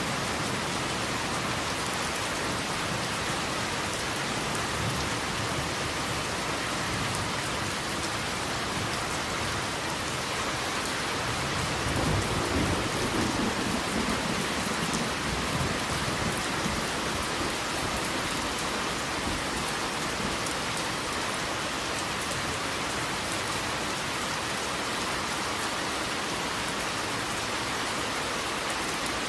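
Steady rain falling. Partway through, a low roll of thunder swells and fades over a few seconds.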